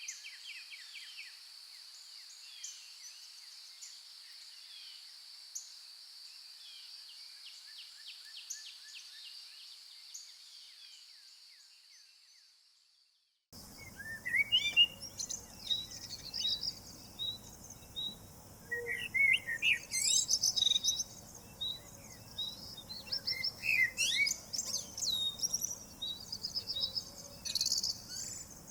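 Wild songbirds chirping and calling in a dawn forest. In the first half a steady high insect drone runs under the chirps and fades out to silence. Then louder birdsong comes in, with one bird repeating a short note about twice a second over the low rush of a creek.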